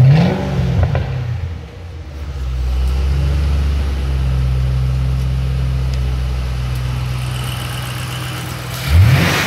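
2005 Ford Mustang GT's 4.6-litre V8 revved: a quick blip at the start that rises and falls back, a steady idle, then another sharp rev near the end.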